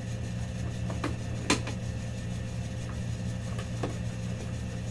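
Steady low hum of a running machine or fan in a small room, with a few short sharp clicks, the loudest about one and a half seconds in.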